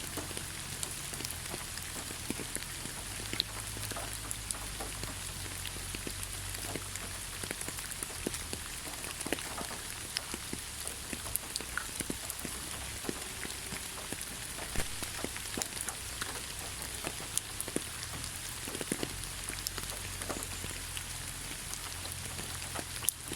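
Steady rain falling in a forest: an even hiss of rainfall with many separate drops ticking close by.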